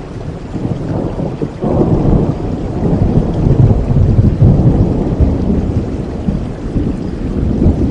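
Thunder rumbling over steady rain: the low rumble swells about a second and a half in, peaks midway and slowly fades.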